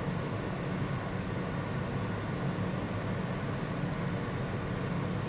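Steady rumble and hiss of a subway car running between stations, even throughout with no braking or door sounds.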